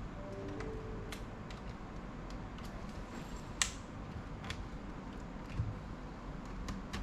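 Scattered light clicks and taps of a laptop's plastic case and small parts being handled during disassembly, over a steady low hum. The sharpest click comes about halfway through, and a duller knock follows about two seconds later.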